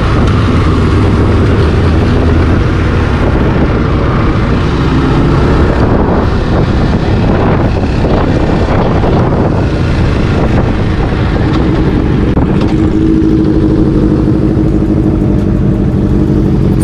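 Motorcycle engine running, its pitch drifting up and down, under a loud, steady low rumble.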